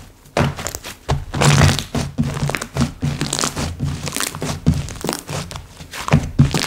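Hands squishing, pressing and folding slime: an irregular run of soft low thuds mixed with sharper crackles, several a second.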